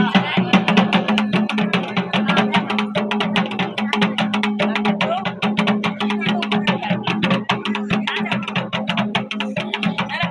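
Dhol and damau, the paired folk drums of Uttarakhand, played in a fast, even run of strokes over a steady low drone.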